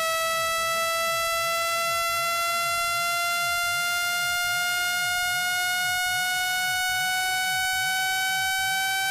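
Synthetic water-ejection tone for clearing water from a phone speaker: a steady, buzzy electronic tone rich in overtones, rising slowly and smoothly in pitch.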